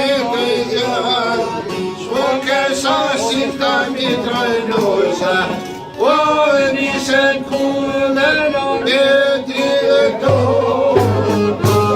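Male voice singing an Albanian folk song over a def frame drum beating a steady rhythm; a low bass part comes in near the end.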